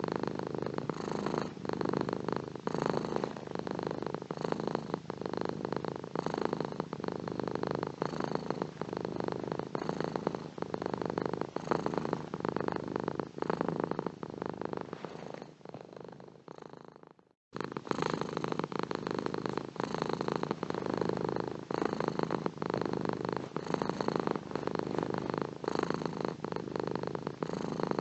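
A domestic cat purring steadily, close up, swelling and easing with each breath about every two seconds. About 15 seconds in the purr fades, there is a brief silence, and then it starts again abruptly, as at a loop or edit point.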